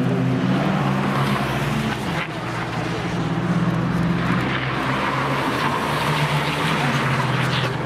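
Cars driving at speed on a race track, with engine notes running continuously and a brief dip about two seconds in.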